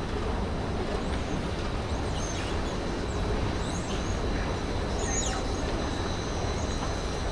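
Steady rumbling running noise of a moving train, with a few faint, short high squeaks in the middle.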